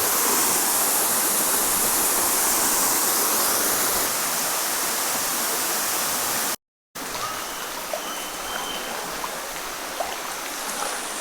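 Waterfall water pouring and splashing into a rock pool: a steady rushing hiss. It drops out for a moment about two-thirds of the way through and comes back somewhat quieter.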